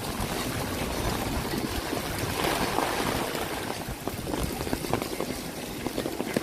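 Steady rain with trickling, running water on a city street, with traffic noise underneath; a louder rush swells and fades about two and a half seconds in.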